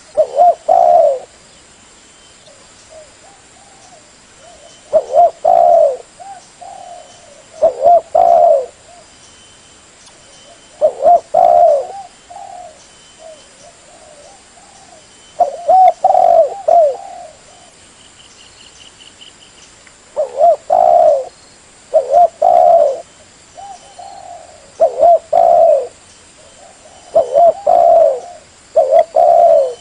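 Spotted dove (tekukur) cooing: loud phrases of a few rising-and-falling coos, repeated every three to five seconds with softer coos between. It is a call used as a lure to bring in other spotted doves.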